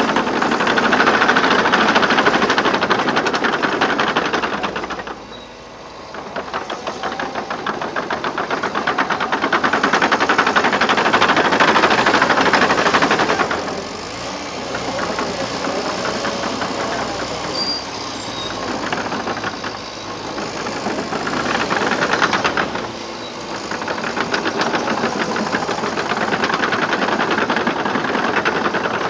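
Liebherr PR 726 crawler dozer working: its diesel engine runs under load beneath a rapid clatter of steel tracks. The sound swells and eases in long waves, dropping off briefly about five seconds in and again near twenty-three seconds.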